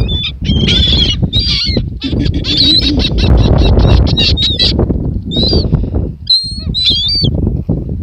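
Birds calling over and over, many short, bending, fairly high calls overlapping, with a steady low rumble underneath. The calls thin out near the end.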